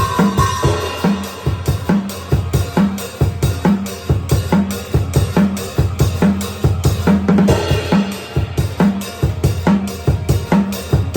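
Drum kit played in a steady, driving metal beat, with kick drum and a snare hit a little under twice a second. Cymbal crashes ring near the start and again about seven and a half seconds in.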